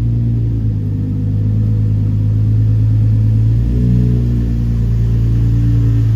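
Car engine running at a steady pitch, the pitch shifting slightly about halfway through.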